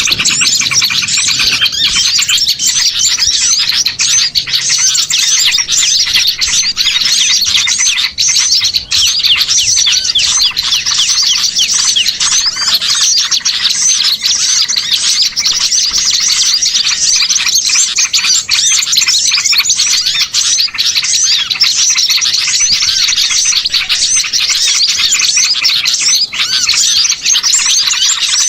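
Dense, unbroken chorus of many small songbirds chirping and twittering rapidly over one another, a layered bird-lure recording of mixed small species.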